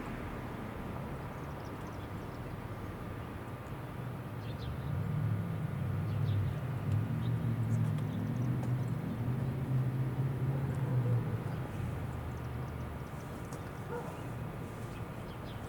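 Low engine rumble that builds about four seconds in, holds for several seconds and fades after about eleven seconds, like a motor vehicle going by.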